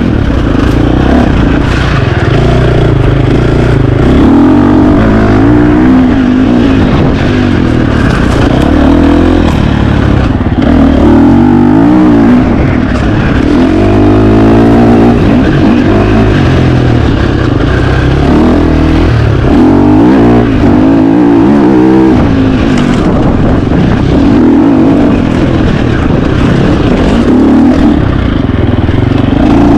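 KTM 350 XC-F dirt bike's single-cylinder four-stroke engine under hard riding, its pitch climbing and dropping every second or two as the throttle is worked on and off.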